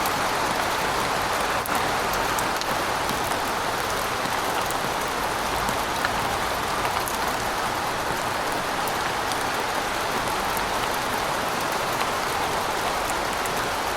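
Steady rain falling, an even hiss with fine drop ticks.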